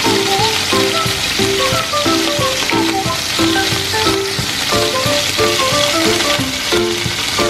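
Chicken breasts sizzling steadily as they fry in hot oil in a pan, under background music with a repeating melody.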